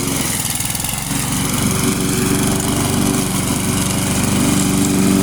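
Gasoline lawn mower engine running steadily at full throttle while cutting tall, overgrown grass, which makes the mower work hard.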